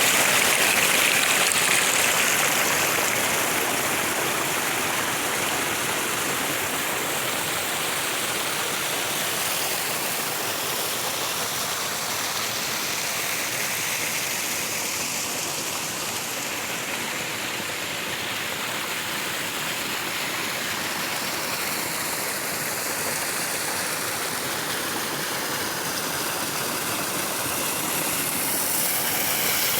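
Flowing water, a steady rush like a stream or small waterfall, easing a little in the middle and swelling again near the end.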